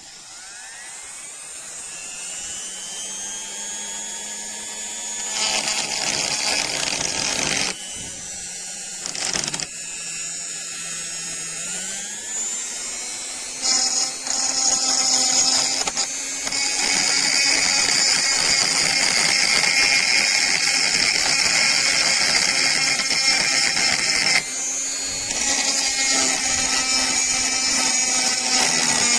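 A small high-speed electric power tool starts from silence and spins up, its pitch rising slightly, then works against the rusty steel of a wrench in harsher, louder passes from about five seconds in. It grows louder and steadier over the second half, stripping rust.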